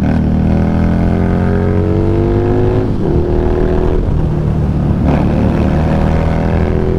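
Harley-Davidson Street Rod 750 V-twin motorcycle engine under way, its pitch climbing as it accelerates, dipping briefly about three and five seconds in, then climbing again.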